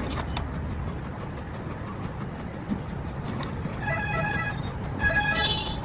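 Steady low rumble of road traffic, with a vehicle horn honking in short, broken blasts about four seconds in and again about a second later.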